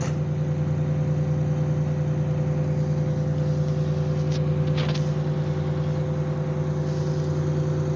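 A vehicle engine idling with a steady, unchanging hum. A few light rustles of the phone being handled come near the middle.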